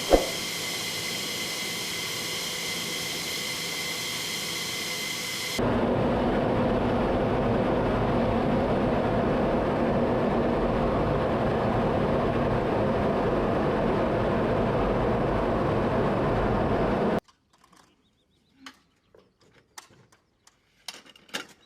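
Jet engine noise: a steady high-pitched whine, then a louder roar from about 6 s in that cuts off suddenly around 17 s, leaving near silence with a few faint clicks.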